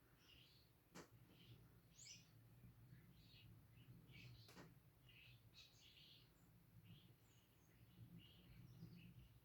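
Faint chirping of a flock of small garden birds at a feeder, many short scattered calls overlapping, with two sharp clicks, about a second in and midway through, over a steady low hum.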